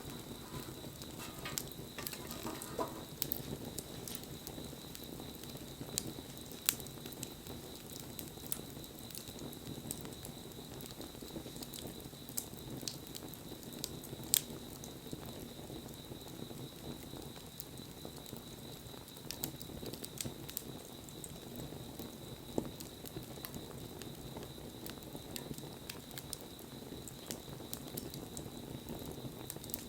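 Wood bonfire crackling, with sharp pops and snaps scattered irregularly over the steady hiss of the burning fire.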